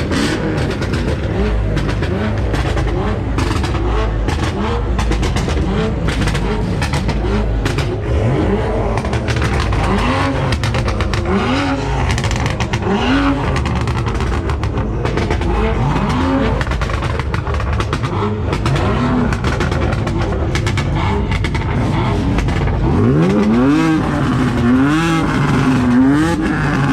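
BMW car engines being revved at a car meet: a steady low idle rumble broken by repeated throttle blips, each rising and falling in pitch, coming every second or two from about a third of the way in, with one longer climbing rev near the end followed by a quick run of blips.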